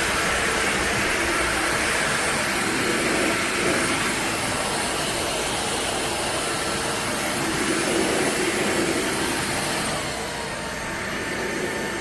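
Cordless stick vacuum cleaner's motor running on its high setting, a steady whining rush of suction. About ten seconds in, its pitch drops slightly and it gets a little quieter.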